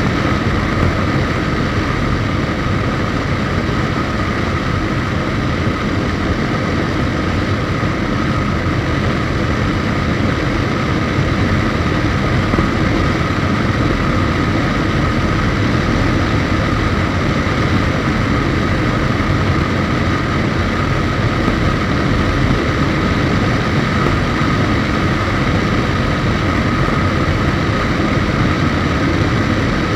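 Suzuki GSX1250FA's inline-four engine running at a steady cruise, mixed with the rush of wind while riding. The sound is loud and steady throughout, with no change in engine speed.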